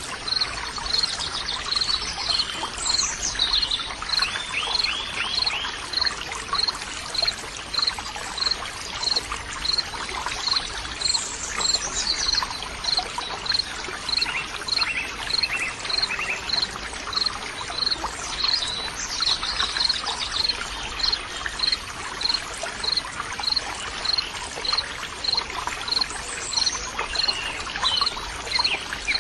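Nature soundscape of trickling, running water with birds singing now and then, over a short high chirp that repeats evenly about three times every two seconds, typical of an insect.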